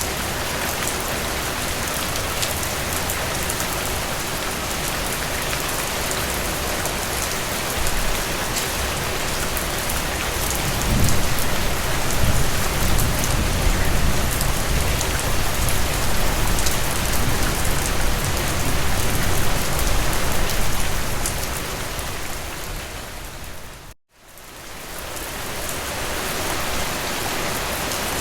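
Heavy rain falling steadily, a dense even hiss of drops. About halfway through, a low rumble swells beneath it for several seconds. Near the end the rain fades out to a moment of dead silence and fades back in, an edit seam in the recording.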